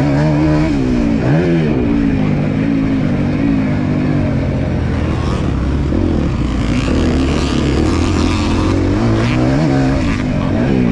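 Motocross dirt bike engine running hard, its pitch rising and falling repeatedly with the throttle, with a quick rev up and down about a second and a half in.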